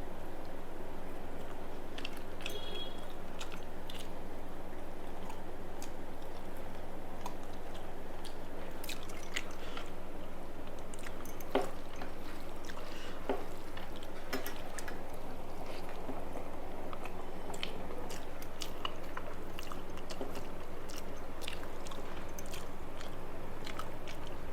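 Close-up chewing of rice and fried food, with scattered small crunches and clicks, over a steady low background hum.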